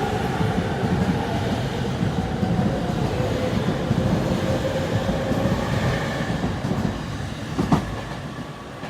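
JR East E231-500 series electric train pulling out of the station: motor whine rising slowly over running and rail-joint noise, then fading as the train draws away. A single sharp knock near the end.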